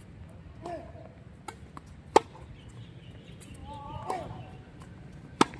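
Tennis ball struck by rackets in a rally: two sharp hits about three seconds apart.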